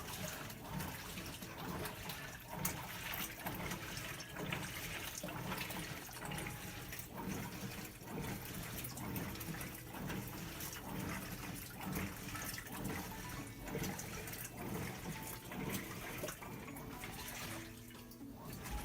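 Hitachi BeatWash top-loading washing machine with water running and splashing in its tub, a steady, irregularly churning wash of water sound.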